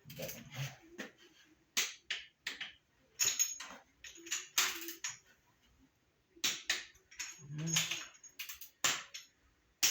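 Click-type torque wrench clicking as the engine's bolts are rechecked at their set torque: about a dozen sharp, irregular clicks spaced a fraction of a second to two seconds apart.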